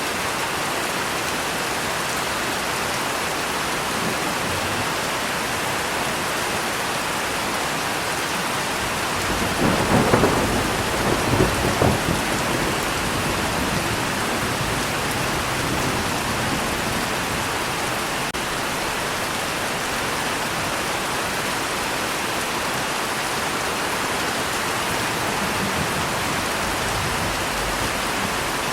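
Steady rain falling, with a roll of thunder about ten seconds in that rumbles in a few quick peaks over some three seconds and fades back under the rain.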